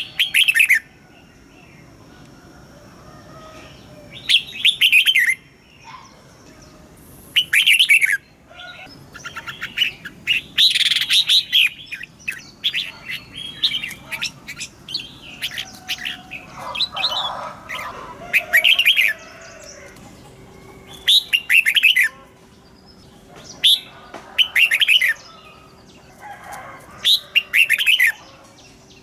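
Red-whiskered bulbul singing short, loud, rapid chirping phrases, one every two to three seconds.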